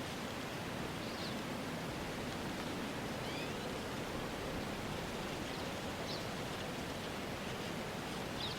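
Steady outdoor ambience: an even rushing noise like wind through trees, with a few faint, short bird chirps scattered through it.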